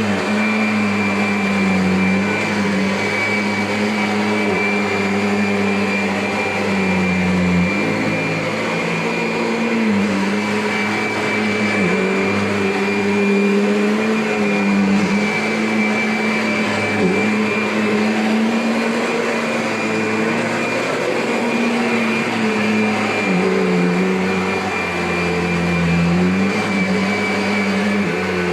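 Kirby upright vacuum cleaner running continuously, a steady high whine over a low motor hum whose pitch dips and comes back up several times.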